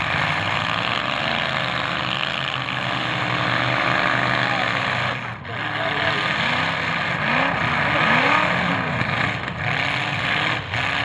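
Several demolition derby cars' engines running and revving hard as they shove against each other, their pitch rising and falling again and again over a steady engine noise.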